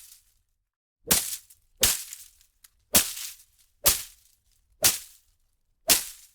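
Leafy plants and undergrowth struck and whipped in six sharp, separate hits about a second apart. Each hit is a quick swish and smack followed by a short rustle of leaves.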